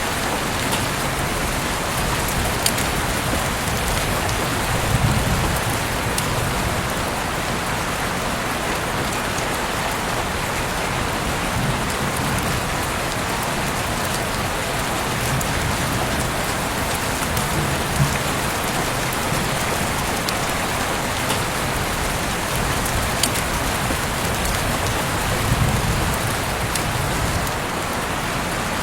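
Heavy rain falling steadily, a dense even hiss with the crisp ticks of individual drops hitting nearby surfaces, and a few soft low rumbling swells underneath.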